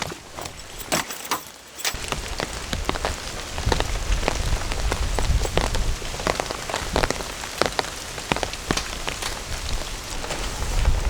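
Rain falling, many separate drops striking a surface. A low rumble joins about two seconds in.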